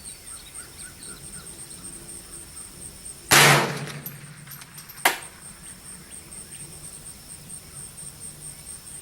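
One shot from a Smith & Wesson M&P 15-22 .22LR rifle about a third of the way in, its report trailing off over about a second. A single sharp tick follows a couple of seconds later. Insects chirp steadily throughout.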